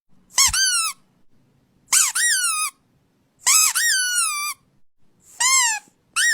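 A series of high-pitched squeaks, each sliding up and then down in pitch and lasting under a second. They come about one and a half seconds apart, four in all, and a longer fifth begins just before the end.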